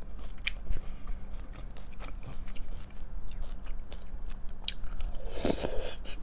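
Breakfast cereal being chewed close to the microphone: a run of crisp crunches, with a short voiced hum about five and a half seconds in.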